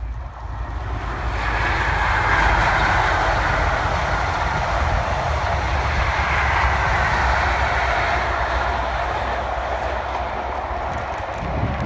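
High Speed Train with a diesel power car passing at speed: a steady rush of wheels on rail and a low rumble that builds over the first two seconds, holds, then eases slowly.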